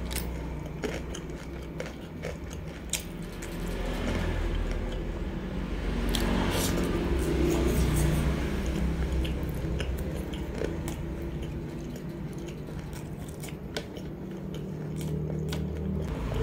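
Close-up chewing of crispy batter-fried sweet potato, with many sharp crunches scattered throughout.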